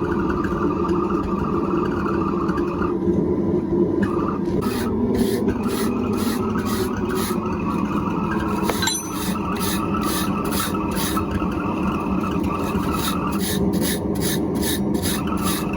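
Rhythmic rasping strokes on metal, about two to three a second, starting about four seconds in, over a steady roar.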